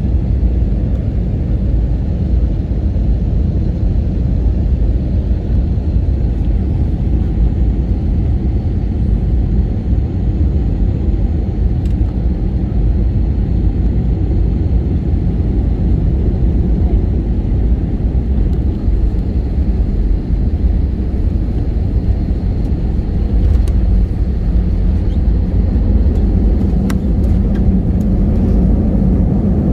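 Airbus A321-211 with CFM56 engines heard from inside the cabin during landing and the roll-out on the runway: a steady low rumble of engines, airflow and wheels.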